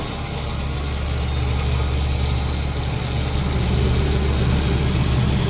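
Helicopter engine and rotors running, heard from inside the cabin: a steady low drone that grows slowly louder as the helicopter gets under way.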